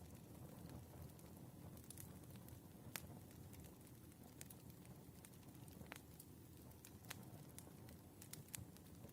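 Firewood burning quietly, crackling with sharp, irregular pops and snaps over a low, steady rumble.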